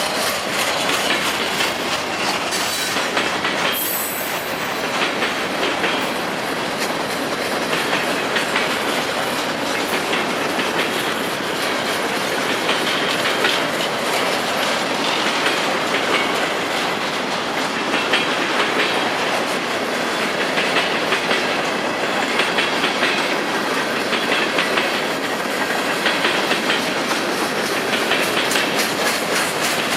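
Freight train cars rolling steadily past, the wheels clicking again and again over the rail joints.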